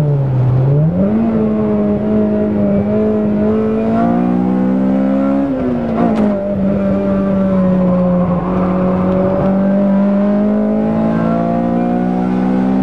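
Car engine under hard load on a race track, heard from inside the cabin. The engine note climbs steadily, drops sharply about six seconds in, as at a gear change or lift, then holds and climbs again near the end.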